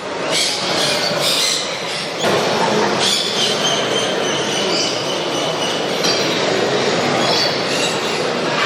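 Many caged parrots screeching and chattering at once, a loud, dense din with shrill squeals running through it.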